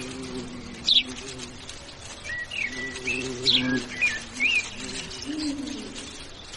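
Lovebirds giving a series of short, sharp chirps that sweep up and down in pitch, over a low steady hum of a few tones.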